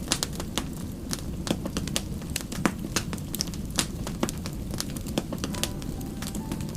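Wood campfire crackling, with irregular sharp pops several times a second over a steady low rumble of burning.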